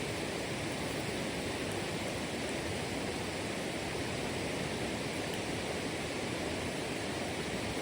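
Steady rushing water, an even unbroken roar like a river or waterfall.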